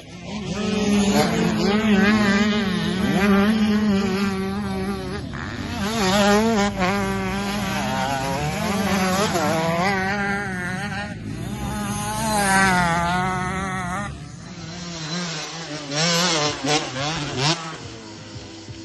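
Mini motocross bike engine revving up and down over and over as it rides, its pitch rising and falling every second or two. It grows quieter about three quarters of the way through.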